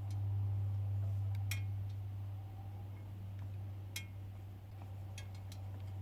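A steady low hum, with a few sharp ticks scattered through it, the clearest about a second and a half in and about four seconds in.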